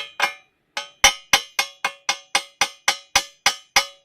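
A hammer striking steel over and over, sharp ringing metallic knocks about four a second, each one dying away before the next.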